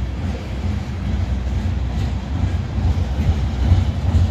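Freight train of tank cars rolling past at speed: a steady low rumble of steel wheels on the rails.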